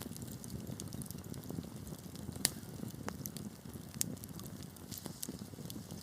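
Wood fire burning in a fireplace: a steady low rumble of flames with frequent small crackles and pops, a sharper pop about two and a half seconds in and another about four seconds in.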